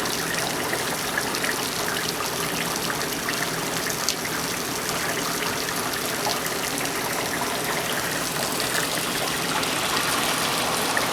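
Torrential rain pouring down, heard through an open window: a steady, dense hiss of water with a few faint sharp ticks.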